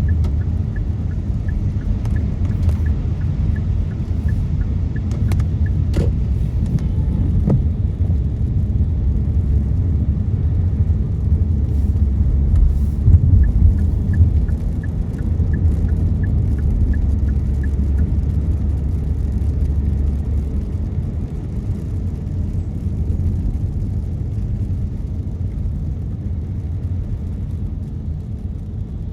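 Car driving on a wet road heard from inside the cabin: a steady low road and engine rumble, with scattered light clicks and ticks over it.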